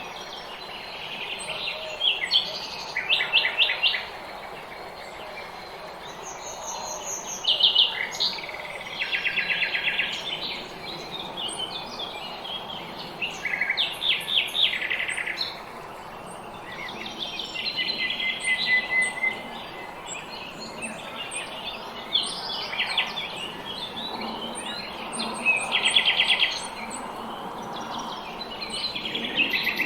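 Small songbirds singing in spring: short, rapid trilled phrases of quickly repeated chirps, one every few seconds, over a steady background hiss.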